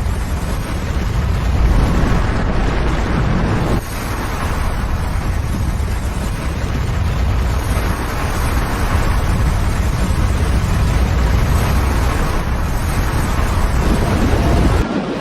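Avalanche of snow and debris crashing down a mountainside: a loud, steady, deep rumble, with a brief drop about four seconds in.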